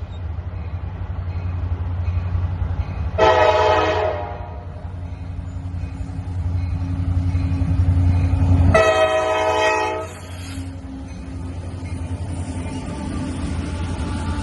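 Diesel locomotive's air horn sounding twice, a short blast and then a longer one of about two seconds, over the steady low rumble of the locomotive's engine.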